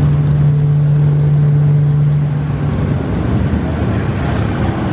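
Police motorcycles running at low speed while riding a formation maneuver. One engine holds a steady drone for the first two and a half seconds before it blends back into the rumble of the others.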